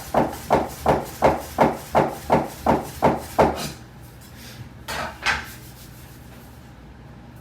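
Soba knife chopping through folded buckwheat noodle dough onto a wooden board, a steady run of sharp knocks about three a second that stops about three and a half seconds in. Two softer knocks follow about a second and a half later.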